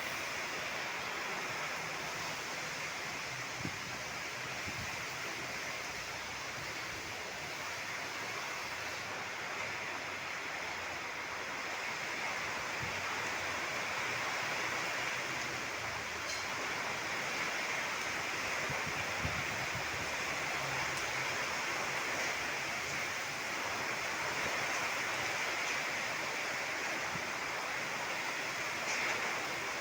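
Heavy rain falling steadily in the wind, a dense even hiss with no break.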